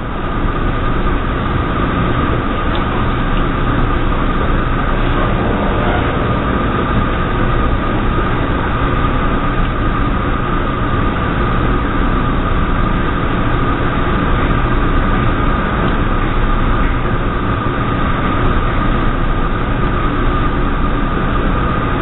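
Steady mechanical hum and noise of the O'Hare Airport Transit System's third-rail people-mover train, with a steady high whine over it.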